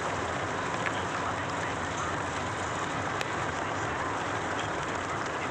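Steady rain falling, with small splashing drops heard throughout.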